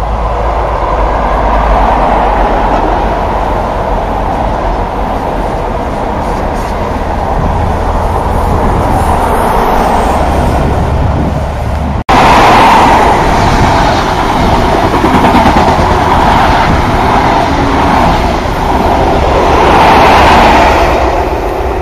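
Diesel passenger trains passing close by on a seafront line: a steady rumble of wheels on rail and engine noise. About twelve seconds in the sound cuts abruptly to a second, closer passing train, louder and swelling as the coaches go by.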